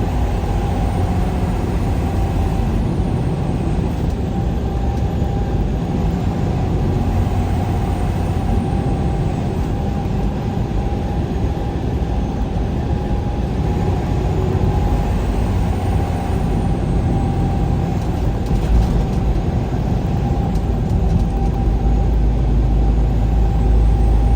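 Road vehicle driving: steady engine and road noise, with a low rumble growing stronger near the end.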